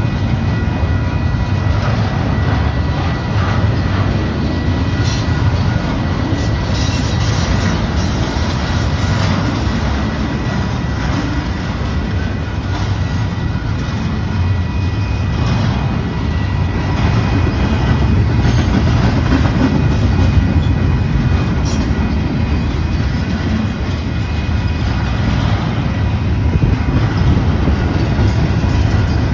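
Double-stack intermodal freight train rolling past at steady speed: a loud continuous rumble of the cars with scattered clicks and clatter from the wheels on the rails.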